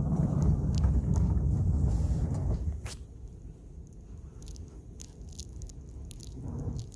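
A sofa being pushed over snow, making a low scraping crunch for about two and a half seconds, then quieter with a few small clicks and a soft bump near the end.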